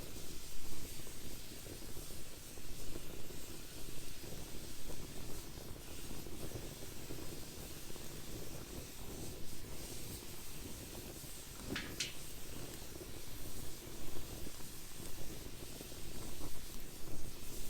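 Wood fire burning in a fire pit: a low steady rumble, broken by one sharp pop about twelve seconds in.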